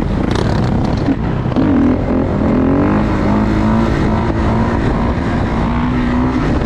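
Dirt bike engine running loud, revving up about a second and a half in and then holding a steady pitch.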